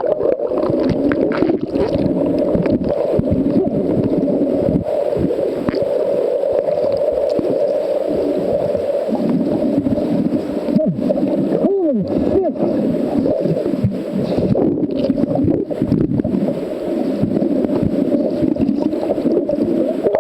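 Underwater recording: a boat engine's muffled, steady drone carried through the water, with gurgling. A short wavering change in pitch about twelve seconds in.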